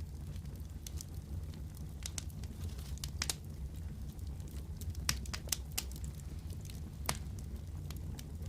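Wood fire crackling in a fireplace: irregular sharp pops and snaps, several louder ones in the middle of the stretch, over a steady low rumble of burning.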